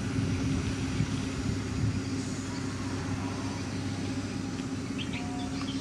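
Motor grader's diesel engine running steadily with a constant low hum.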